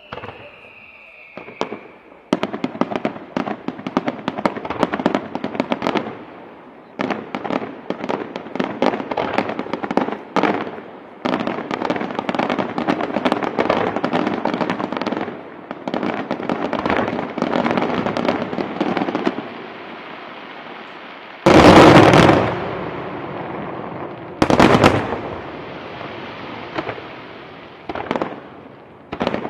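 Aerial fireworks display. A short falling whistle comes first, then a long run of dense, rapid crackling bangs. After a lull come a few single heavy shell bursts, the loudest about 22 seconds in.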